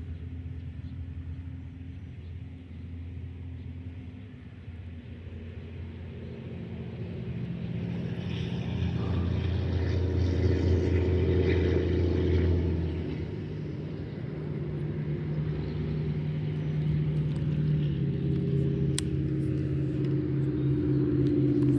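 Motor vehicle engine rumble with steady low pitched tones. It grows louder from about seven seconds in, eases off after about thirteen seconds, and rises again near the end.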